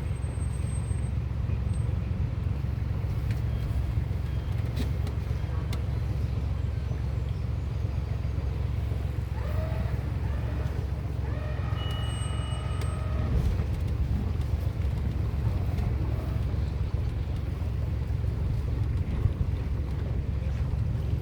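A boat's motor running steadily underway, a constant low rumble. Faint voices come in briefly about halfway through.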